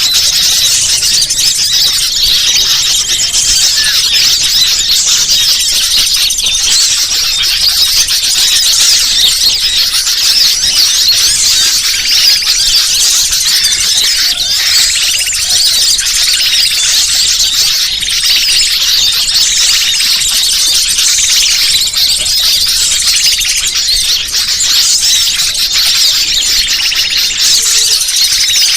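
Bird-lure recording: a dense, continuous, high-pitched chatter of many small birds chirping and twittering over one another.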